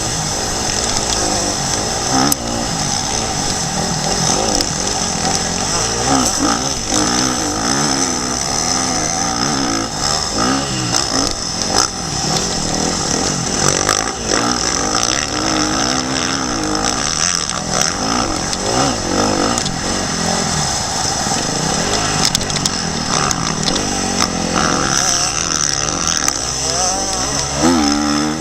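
Motocross bike engine revving up and down over and over as the bike is ridden hard around a dirt track, heard from the rider's helmet.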